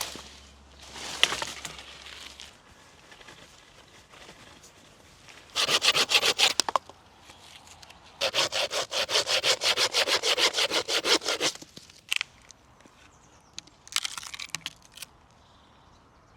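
Hand saw cutting wood in quick back-and-forth strokes: a short run about five and a half seconds in, then a longer run of about three seconds, with a few scattered clicks and rustles around them.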